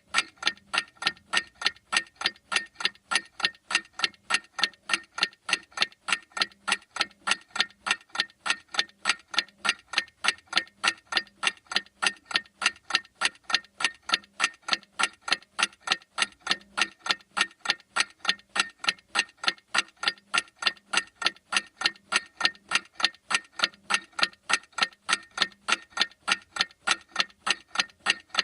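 Clock ticking steadily, sharp even ticks a few times a second without a break.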